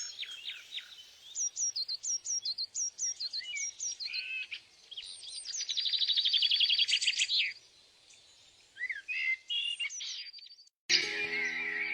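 Small songbirds singing: quick repeated chirps and fast high trills, with a pause of about a second partway through.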